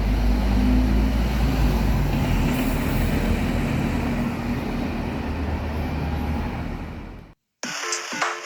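Scania OmniCity N230UD double-decker bus's diesel engine running with road noise, a steady low drone. It cuts off abruptly about seven seconds in, and after a brief gap electronic music starts near the end.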